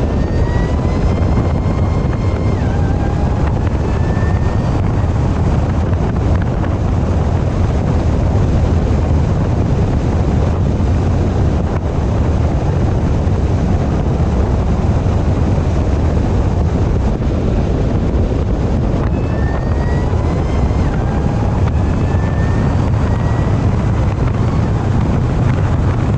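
Supercharged LSA V8 of a Camaro ZL1 with a Rotofab cold air intake, driving under a steady low engine drone with wind on the microphone. Twice, about a second in and again past the middle, the supercharger whine climbs in pitch under acceleration, drops once as the car shifts, and climbs again.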